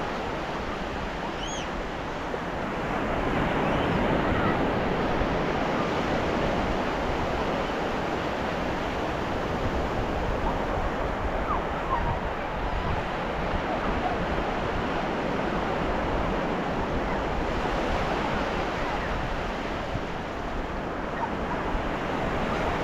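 Ocean surf washing onto a beach in a steady rush of breaking waves, swelling a little about three seconds in.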